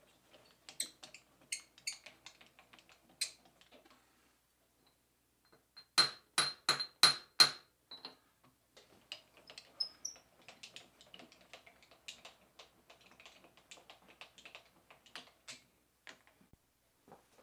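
Workshop metalwork handling: scattered light metallic clicks and knocks. About six seconds in come five sharp, evenly spaced ringing metal strikes, like steel being tapped.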